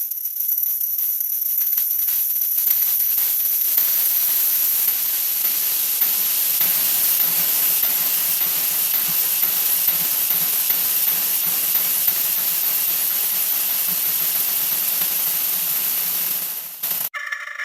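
A 'wha wha' sound effect sped up so far that it has turned into a steady, dense hiss, strongest in the highest pitches. It cuts off suddenly near the end.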